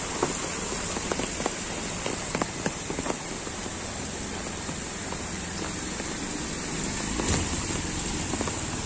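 Heavy rain falling steadily on a flooded street, with sharp close drop hits in the first few seconds. About seven seconds in, the sound swells briefly as a scooter's wheel splashes through the floodwater.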